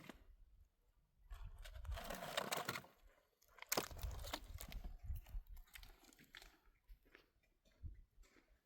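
Irregular crunching and crackling, in uneven bursts with sharp clicks, thinning out towards the end.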